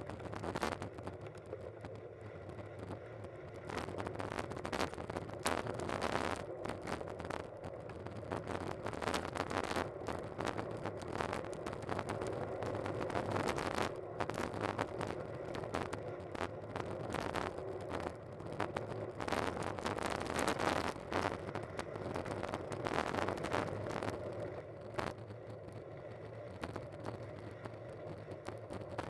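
Riding a bike over rough ground: a steady running noise with many irregular knocks and rattles as it goes over bumps.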